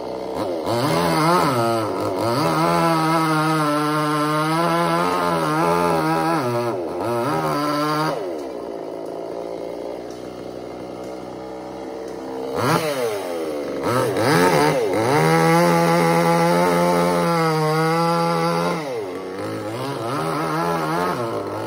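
Two-stroke chainsaw run up to full throttle for about seven seconds, falling back to idle for a few seconds, then held at full throttle again for about six seconds, with a shorter rev near the end.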